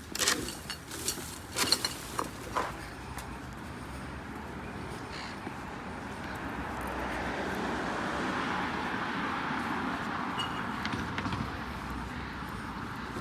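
Several sharp clicks and knocks in the first few seconds, then the tyre and engine noise of a passing road vehicle, swelling and fading.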